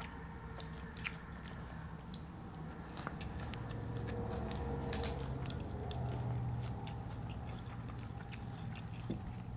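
Close-up eating sounds: chewing a mouthful of burrito bowl and tortilla chips, with many short crisp clicks and smacks scattered throughout, over a faint low hum.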